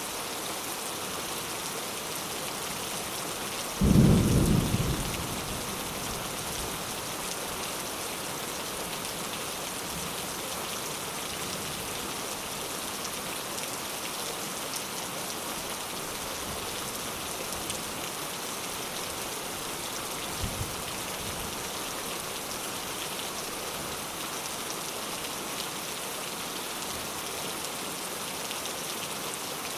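Steady rain falling on a coconut-palm-leaf thatched roof. About four seconds in, a sudden low clap of thunder rumbles and dies away over a second or two.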